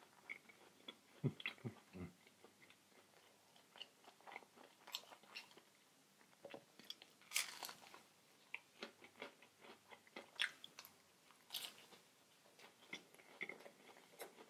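A person chewing and biting food close to the microphone: scattered small mouth clicks and sharp bites, a few of them louder.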